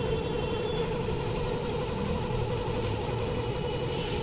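A vehicle engine running steadily, a constant even hum with no change in pitch.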